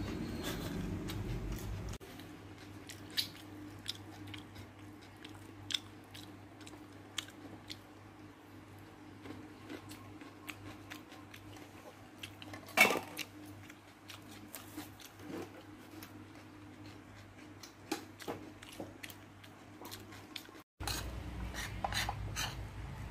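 A person chewing food with the mouth close to the microphone: many irregular sharp clicks over a low steady hum, one louder click about halfway through. After a short break near the end, a metal spoon clicks against a plate of rice.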